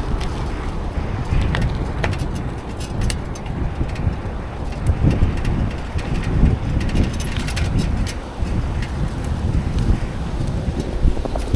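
Wind rumbling on the microphone while riding a bicycle, with road noise from the tyres and scattered light clicks and rattles.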